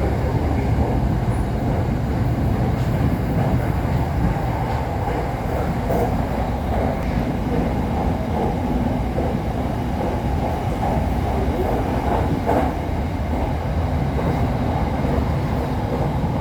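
Steady rumble of an SRT Red Line electric commuter train running along the track, heard from inside the passenger car.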